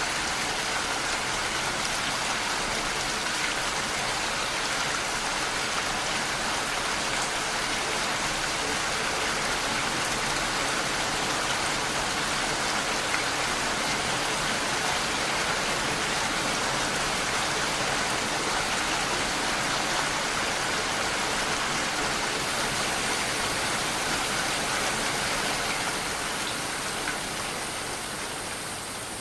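Steady rain falling, an even hiss of many drops, that begins to fade out gradually near the end.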